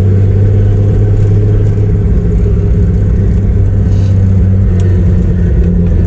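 Turbocharged Chevrolet Opala inline-six running at a steady cruise, a deep, even drone heard from inside the moving car.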